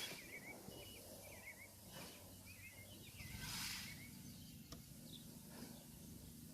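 Faint songbird singing: a short, chirpy warbled phrase repeated over and over, with a few soft swells of noise.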